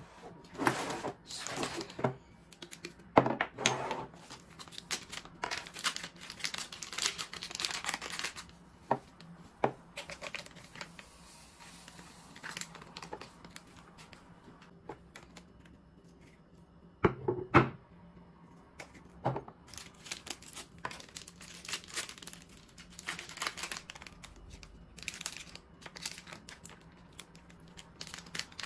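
Plastic spice packets crinkling and being torn open, with rustling throughout and a couple of sharp knocks about two-thirds of the way in.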